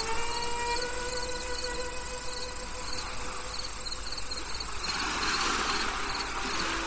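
Crickets chirping: a steady high insect trill with short repeated chirps about twice a second, over soft held tones of ambient music.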